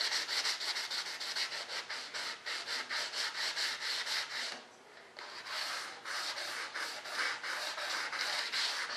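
Back-and-forth sanding with a sanding block, about four to five rasping strokes a second. It stops briefly at about the halfway point, then starts again.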